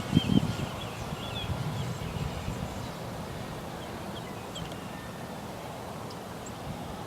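Wind buffeting the microphone in gusts, strongest in the first half second, with birds chirping briefly in the background.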